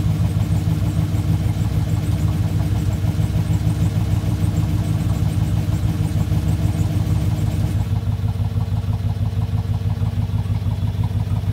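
Chevy Tahoe V8 idling steadily, heard from inside the cabin, shortly after starting with 40 psi of oil pressure. The idle drops a little about eight seconds in.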